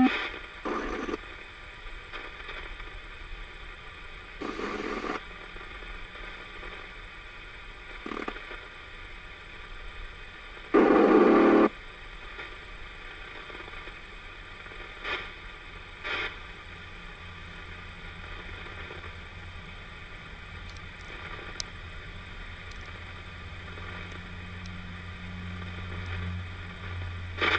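CB radio receiver hissing with static, broken by sudden short crashes of noise a few seconds apart, the loudest about 11 seconds in. Static crashes like these are how the CB radio gives away lightning discharges in the approaching thunderstorm.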